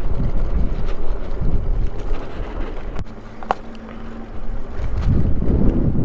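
Wind buffeting the microphone while riding an electric bike on a dirt trail, a gusty low rumble. It eases for about a second and a half midway, when a faint steady hum comes through, then picks up again.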